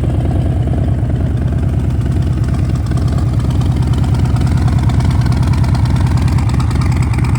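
Harley-Davidson Low Rider S's Milwaukee-Eight 114 V-twin running at idle through a Vance & Hines exhaust, a steady low pulsing note that grows slightly louder in the second half.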